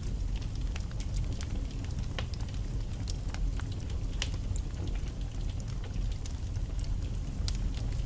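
Wood fire in a fireplace burning steadily, with a low rumble of flames and frequent sharp, irregular crackles and pops from the logs.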